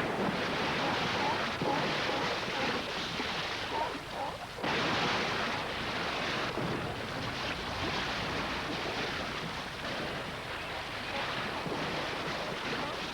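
Ocean surf washing on the shore: a steady rushing of breaking waves, with a sudden change in the wash about four and a half seconds in.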